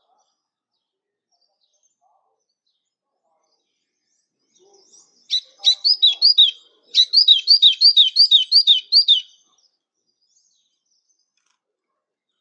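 A small songbird sings one phrase of repeated sweeping whistled notes. The notes are quick and evenly spaced, about four a second. The song starts about five seconds in and stops about nine seconds in.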